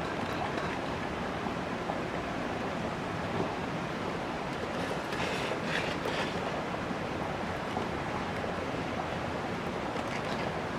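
Steady rushing outdoor noise with a few faint, sharp crackles and clicks scattered through it, a little busier about halfway through.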